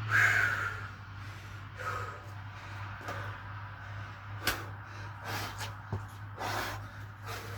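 A person exercising: hard breaths and thuds of movement between burpee reps, with a loud burst right at the start and a sharp knock about halfway through. A steady low hum runs underneath.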